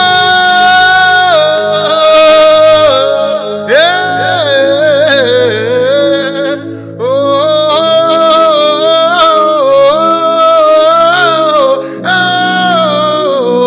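Worship music: a single voice sings long, wordless, wavering notes over sustained backing chords, in phrases that break off about four, seven and twelve seconds in.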